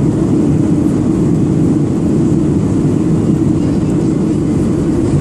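Steady low rumble of a Boeing 737-800 heard from inside the passenger cabin: engine and airframe noise, unchanging in level.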